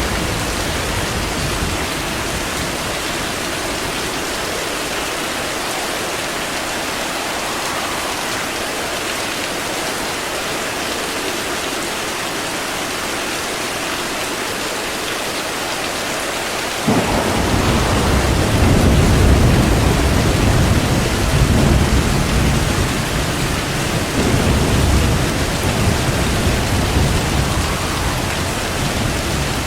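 Steady heavy rain falling, with a deep roll of thunder that breaks in suddenly a little past the halfway point and rumbles on in waves for over ten seconds.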